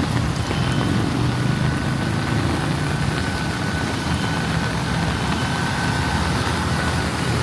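A motor vehicle's engine running with a steady low hum, heard over the even hiss of heavy rain. A faint thin high whine holds steady from about a second in.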